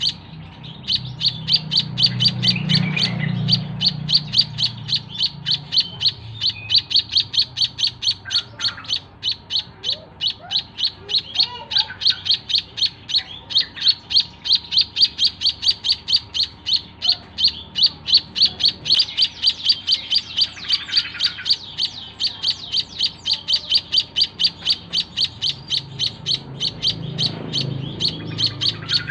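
White-headed munia (emprit kaji) calling in a rapid, steady series of short high chirps, about three to four a second.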